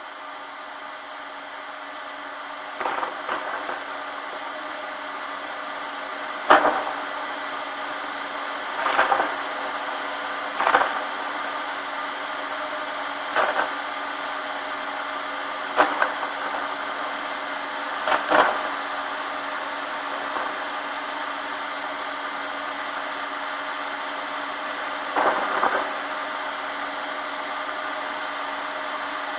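A rain shower coming on, a steady hiss that slowly grows louder, with short sharp cracks every few seconds.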